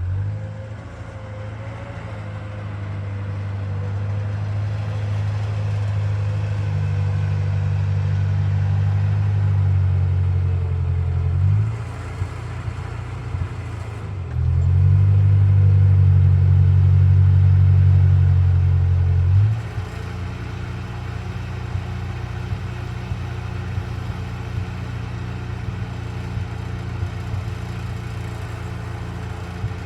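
Old Ford tractor engine running hard, pulling louder over the first ten seconds or so, easing off briefly, then working hard again before dropping back to a steadier, quieter run for the last third.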